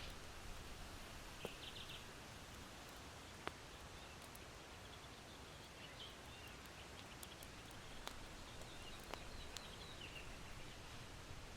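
Charcoal in an irori hearth crackling faintly, with a few sharp pops, over a steady low hiss of wind. Faint high chirps of small birds come about a second and a half in and again through the second half.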